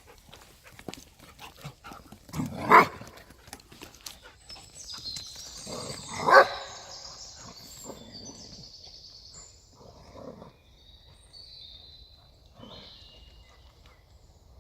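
A dog barks twice, loudly, about two and a half seconds and six seconds in, with quieter dog sounds between.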